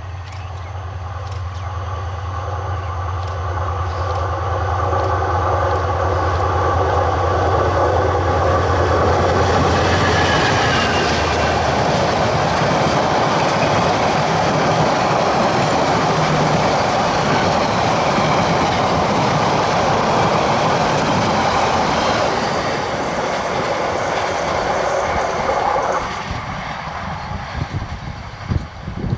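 Diesel locomotive approaching with a steady low engine drone that grows louder, then passing at about ten seconds. Its passenger coaches rush by with loud wheel-and-rail noise for about fifteen seconds. The sound drops suddenly as the last coach passes and goes on fading as it draws away.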